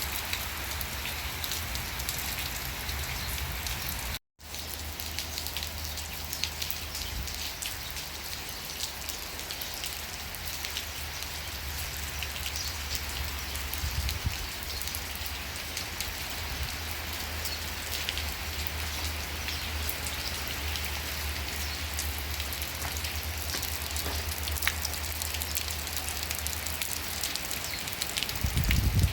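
Steady rain falling, with many separate drops ticking on a surface over a low steady rumble. The sound cuts out completely for a split second about four seconds in, and a low thump rises right at the end.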